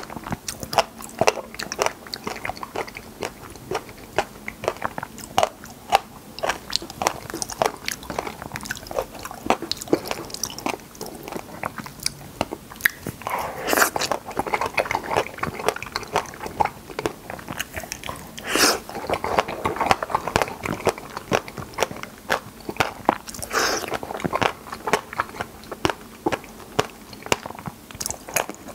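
Close-miked chewing of a mouthful of wild raspberries: a dense run of small clicks and smacks of the mouth, with three louder bursts spread through it.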